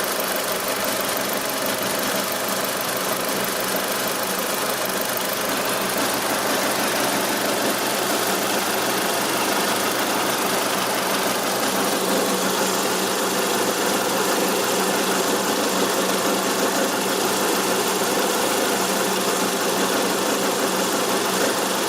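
Mitsubishi 4G63 inline-four engine idling steadily, with a strange noise that started after a timing belt change and is heard only at idle.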